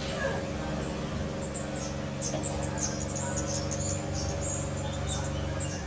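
Scarlet-headed flowerpeckers giving rapid, very high, thin chirps in quick clusters, over a steady low hum.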